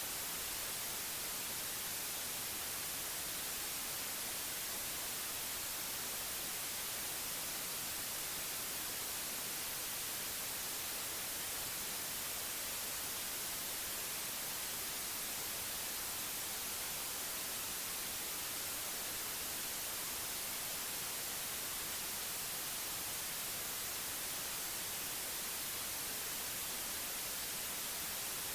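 Steady electronic white noise: an even, unchanging hiss, brightest in the high end.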